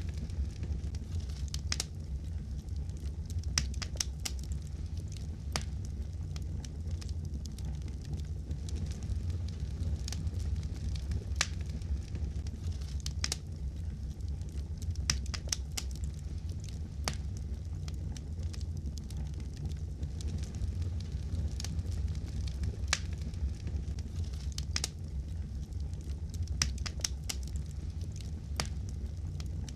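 Wood fire crackling in a fireplace: a steady low rumble of the flames with sharp pops and snaps scattered irregularly throughout.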